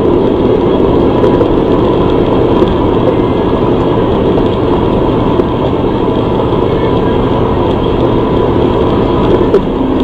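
Steady engine and road rumble of a vehicle on the move, unchanging throughout.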